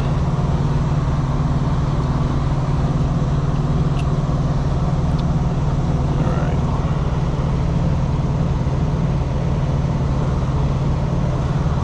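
Steady low drone of an idling truck engine, with a faint click about four seconds in.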